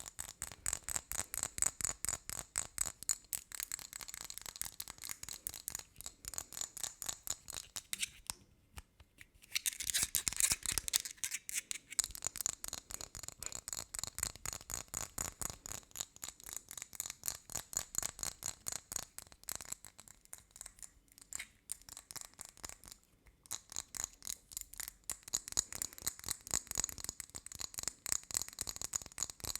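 Fast ASMR trigger sounds: quick tapping and scratching strokes on small objects, several a second, with a short pause about nine seconds in.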